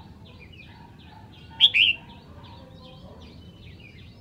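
Red-whiskered bulbul singing: one loud two-note phrase about a second and a half in, over a steady run of short high chirps, about four a second.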